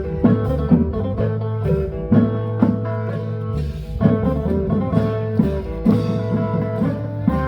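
Lively band music: a quick plucked-string melody over a steady bass line and regular drum beats.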